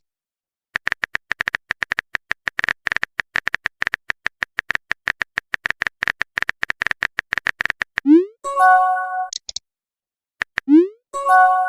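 Rapid phone-keyboard typing clicks for about seven seconds, then a short rising message-sent swoosh and a bright multi-note notification chime; a few more clicks and a second swoosh and chime come near the end.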